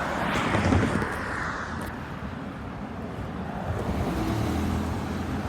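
Road traffic passing on the street by the crossing: tyre and engine noise swells about half a second in, then a low engine hum builds near the end.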